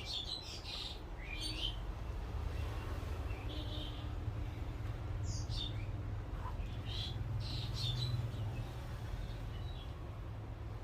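Birds chirping in short high calls every second or two, over a steady low rumble.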